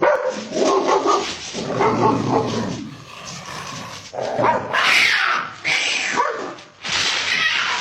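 A dog barking and yelping repeatedly in short, separate outbursts. The later barks, from about four seconds in, are harsher and noisier.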